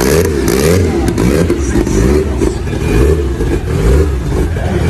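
Fiat 600's engine revving, its pitch rising and falling again and again.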